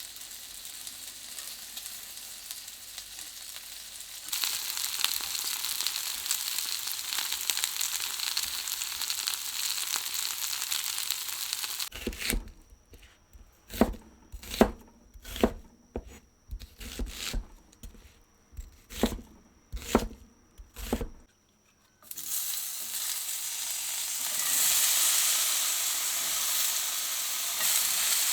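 Food sizzling in a frying pan, growing louder about four seconds in. Midway it breaks off for a run of about a dozen sharp knocks, irregularly spaced, before the sizzling comes back.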